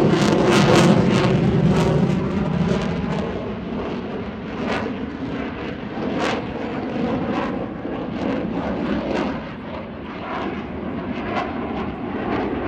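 An aircraft flying past, its engine noise loudest in the first few seconds and then dropping away.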